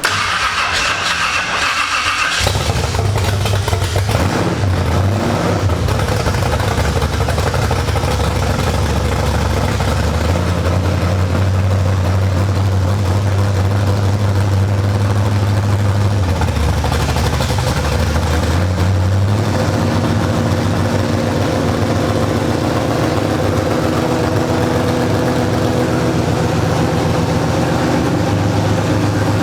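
Newly installed race car engine cranked over on the starter for about two seconds, then catching and running. Its speed changes a few times as the throttle or timing is adjusted on the first run.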